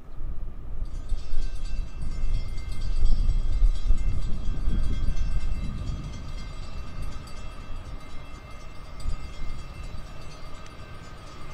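Diesel freight train approaching: a steady low rumble that swells a few seconds in and then eases, with a faint steady whine above it.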